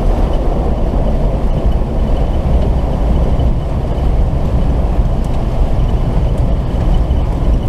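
Diesel 4x4 truck's engine running steadily as it wades through a deep, flowing ford, with water rushing and churning around the vehicle.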